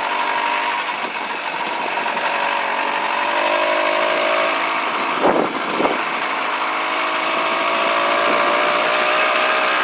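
Small gasoline engine of a motorized bicycle running under way, its pitch creeping slowly upward over the second half, with two brief sharp knocks a little past five seconds in.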